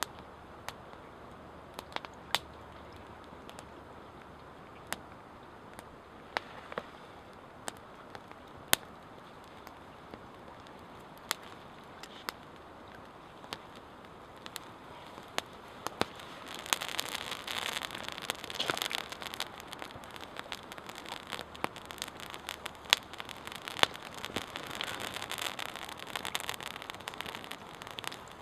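Wood campfire crackling, with sharp single pops every second or two; about halfway through a denser, louder crackle sets in under the pops.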